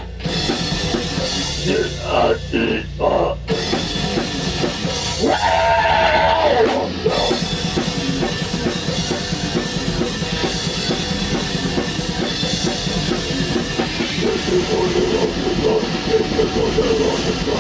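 Black metal band rehearsing: a drum kit with bass drum under dense, distorted instruments. A few short breaks in the first few seconds, then steady playing.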